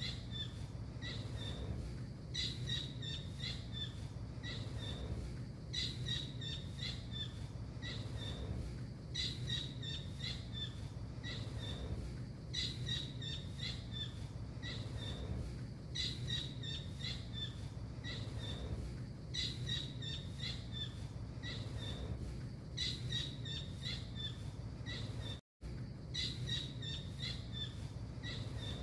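Tengkek biru (small blue kingfisher) calling: bouts of rapid, high-pitched piping notes, each bout lasting about two seconds and repeating every three to four seconds in a looped bird-training recording, over a steady low hum. The sound cuts out for an instant about 25 seconds in.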